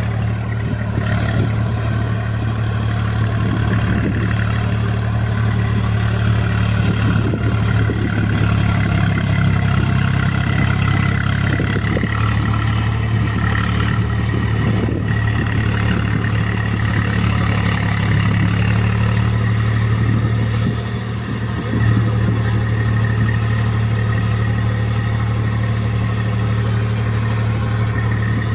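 Swaraj 735 FE tractor's three-cylinder diesel engine running steadily under load as the cage-wheeled tractor pulls through soft paddy-field mud in low-range third gear. About three quarters of the way through, the engine note dips briefly, then picks up again.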